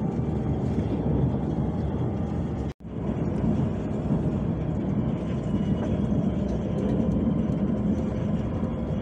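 Steady running rumble of a KTM ETS electric train in motion, heard from inside the passenger car. It drops out for an instant about three seconds in.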